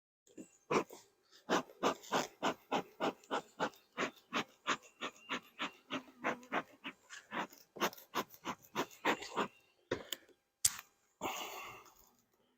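Rapid rhythmic panting, about three or four breaths a second, stopping near the end. It is followed by two sharp clicks and a short rustle.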